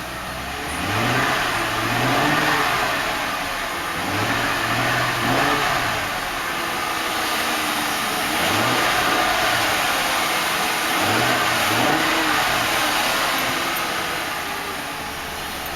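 The Mercury Grand Marquis's 4.6-litre V8 being revved in about four short blips over its idle, the engine note rising and falling each time.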